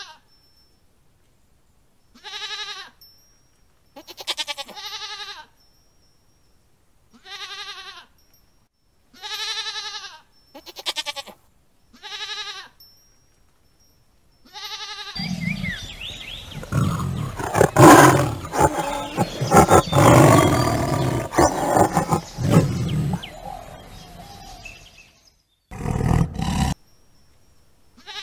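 Goats bleating: about eight separate short bleats over the first half. These are followed by about ten seconds of a loud, rough, unpitched noise and then a brief burst.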